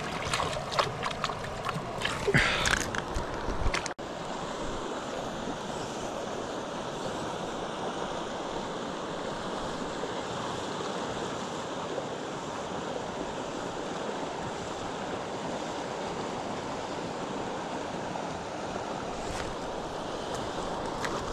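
Splashing and knocks in shallow water for the first few seconds, then, after a sudden break about four seconds in, the steady rush of a flowing river.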